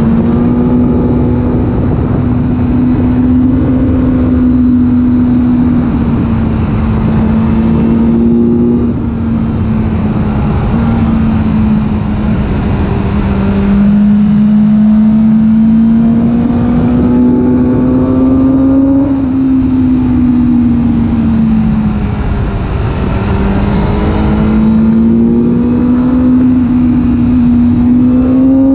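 A 2022 BMW S1000R's inline-four engine running at a steady, fairly high speed while the motorcycle is ridden. Its note climbs slowly and drops back a few times, under a constant rush of wind and road noise.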